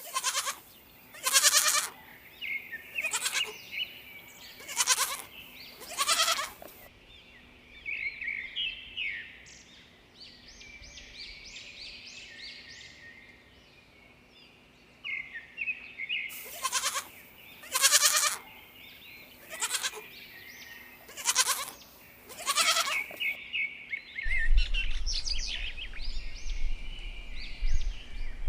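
Goats bleating, a series of short, loud calls in two bouts, with small birds chirping between and after them.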